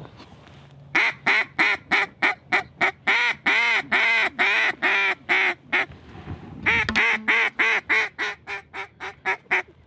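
Hand-blown mallard duck call: two runs of rapid, evenly spaced hen quacks, the notes drawn out in the middle of the first run and the second run trailing off quieter.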